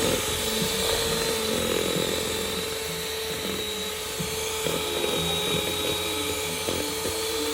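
Small electric hand mixer whirring steadily at a constant speed, whipping body butter.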